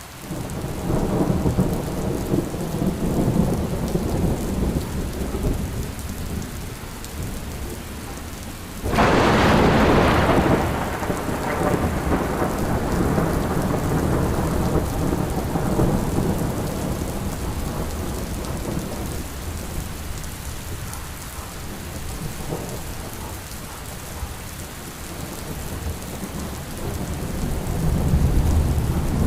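Steady rain with thunder rumbling low. About nine seconds in a loud, sharp thunderclap breaks and rolls away over several seconds, and another low rumble builds near the end.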